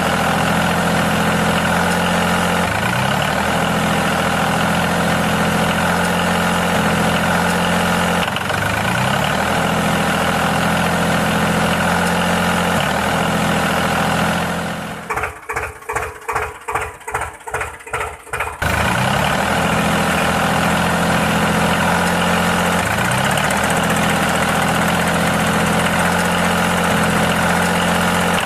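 Engine of a homemade tractor cultivator running steadily. A little past halfway it breaks into rhythmic pulses, about three a second, for a few seconds, then settles back into its steady run.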